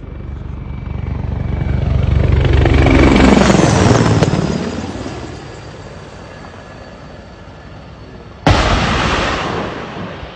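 Mi-24 helicopter passing close: its rotor beat swells to a peak about three seconds in, then drops in pitch and fades away. About eight and a half seconds in there is a single sudden loud blast that dies away over a second or so.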